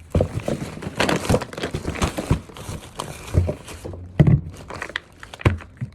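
Plastic shopping bags crinkling and rustling as groceries are unpacked, followed by a couple of knocks as items are set down.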